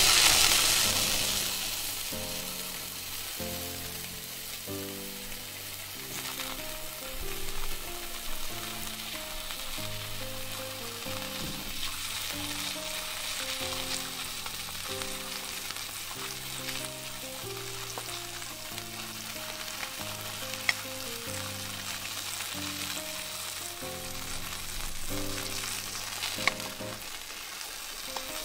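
Oil sizzling in a nonstick wok as tomato rings and an egg-and-flour batter fry in it, loudest at the start and settling to a steady hiss within a couple of seconds. Two sharp taps are heard near the end, with soft background music underneath.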